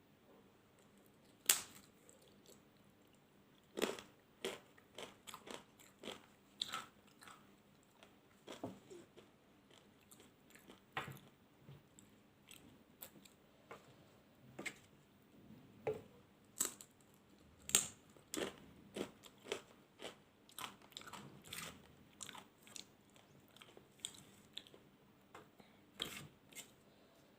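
Close-miked chewing and biting of food, with irregular crunches and wet mouth clicks.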